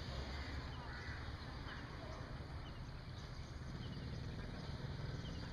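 Faint short bird chirps, a few scattered through, over a low steady rumble.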